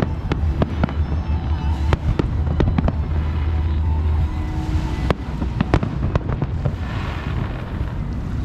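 Aerial fireworks going off in quick, irregular succession: many sharp bangs and crackles over a continuous deep rumble.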